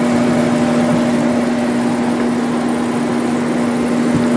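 Sharp window air conditioner's fan motor running on its own, compressor off, with a steady hum and whir. The fan is hitting something.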